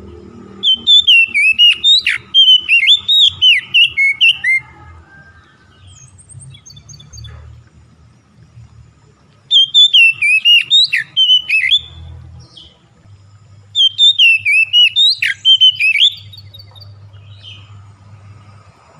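A songbird singing three loud bursts of rapid, sweeping whistled notes, about a second in, around the middle and again a few seconds later. A faint low hum runs underneath.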